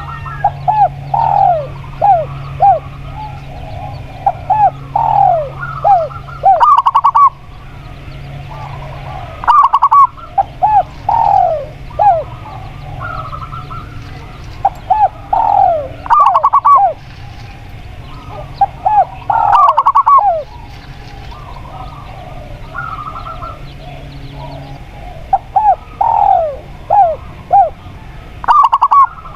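Spotted dove and zebra dove cooing: repeated runs of short notes that each drop in pitch, in bouts with brief pauses between them.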